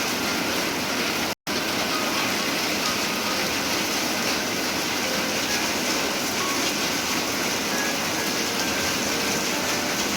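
Rain falling steadily, an even hiss; it cuts out for an instant about a second and a half in.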